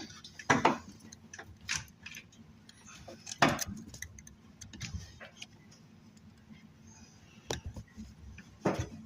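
Scattered metallic clicks and clinks of hand tools and parts during work on a diesel engine's fuel injectors, with louder knocks about half a second in and about three and a half seconds in.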